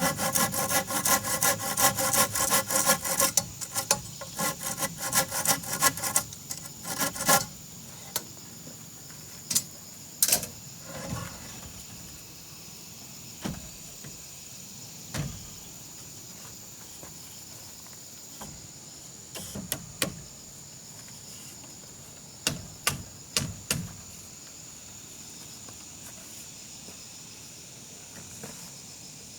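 A saw cutting wood in quick back-and-forth strokes, several a second, with a ringing tone in each stroke; the sawing stops about seven seconds in. After that, scattered single knocks and taps of wood, over a steady high insect drone.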